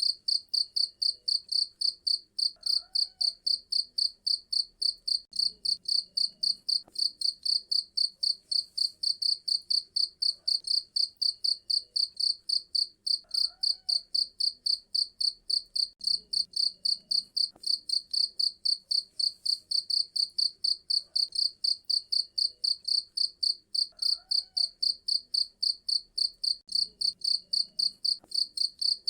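Cricket chirping: a steady, even run of short high-pitched chirps, about three a second.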